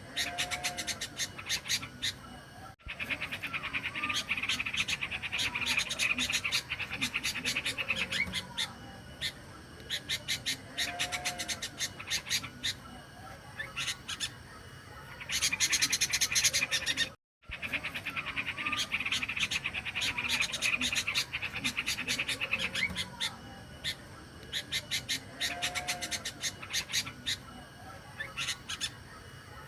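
Yellow-vented bulbul (trucukan) song from a looped lure recording: bubbly whistled phrases over dense, rapid high chirping. The sound cuts out briefly about three seconds in and again just past halfway.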